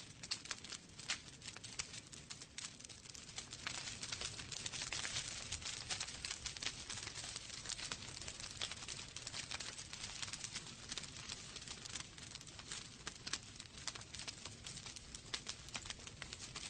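Wood fire burning in a fireplace, crackling and popping irregularly with many small snaps over a soft hiss of flames.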